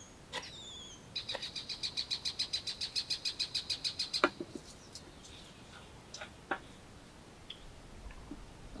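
A bird calling in a fast trill of about ten even high notes a second for some three seconds, with a few brief high calls before it. A couple of sharp clicks or knocks follow.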